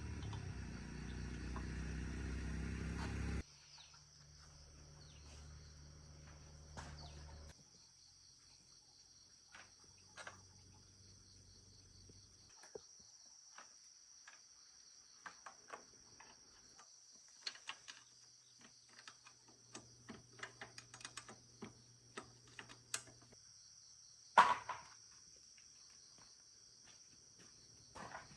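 Crickets chirring steadily in the background. A motor runs loudly for the first three seconds or so, then cuts off abruptly. Scattered light clicks and knocks follow, with one louder knock about 24 seconds in.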